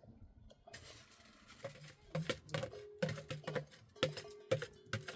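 A run of irregular sharp clicks and knocks, several a second, starting about two seconds in after a brief hiss.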